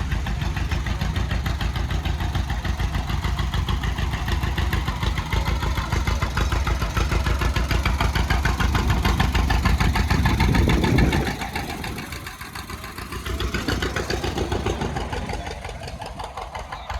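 Farm tractor engines running as tractors pass close by in a parade, a steady low rumble with even firing pulses. The loudest one cuts away about eleven seconds in, and a quieter one swells and fades after it.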